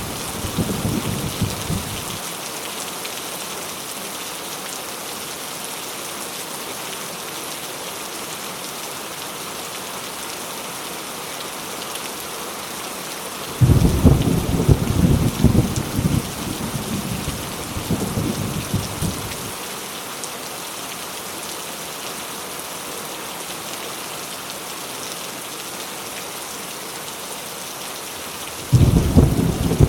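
Heavy rain falling steadily, with rolling thunder. One roll fades out in the first couple of seconds, a long one starts suddenly about halfway through, and another begins near the end.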